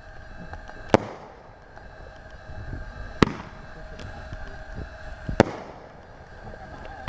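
Fireworks going off: three sharp bangs roughly two seconds apart, each with a short echoing tail, and a fourth just at the end.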